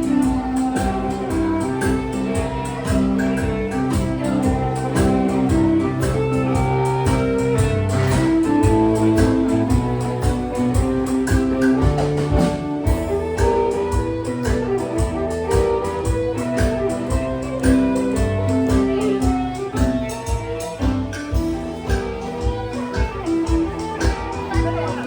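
Live contra dance band playing a tune: fiddle carrying the melody over keyboard accompaniment and percussion keeping a steady, driving beat.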